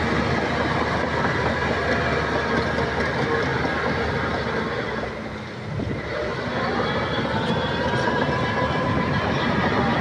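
Crawler bulldozer working, its diesel engine running under load with the steady clanking clatter of steel tracks. The sound drops away briefly about halfway through, then the engine revs back up.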